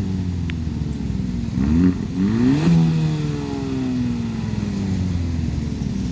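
A stock 2019 Hyundai Elantra Sport's 1.6-litre turbocharged four-cylinder, breathing through its factory muffler and resonator, idling and then revved twice in quick succession about two seconds in. The revs then fall slowly back to idle.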